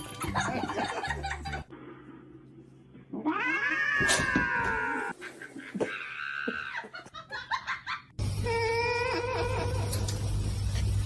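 Several short clips cut together. The loudest is a cat's long drawn-out yowl that slides down in pitch, from about three to five seconds in.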